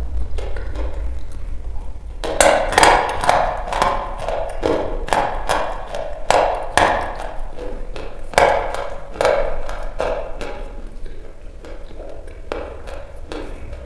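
Dry chalk being bitten and chewed: a quick, irregular run of sharp cracks and crunches, loudest in the middle and thinning towards the end.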